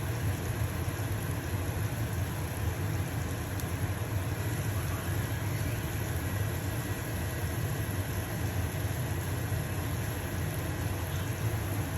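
Stove-top range hood fan running with a steady low hum, over the fine crackling hiss of a pancake sizzling in a frying pan.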